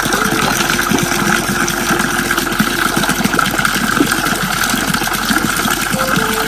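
Heavy rain falling steadily, a dense loud hiss that starts abruptly.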